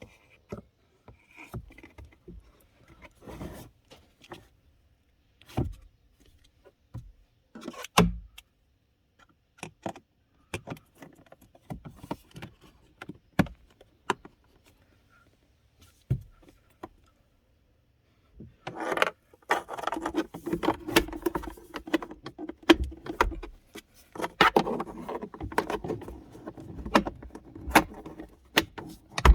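Scattered clicks and knocks of plastic parts being handled during a cabin air filter change, then from about two-thirds of the way through a denser run of rattling and scraping, as of the filter and its cover being worked in and out of the housing.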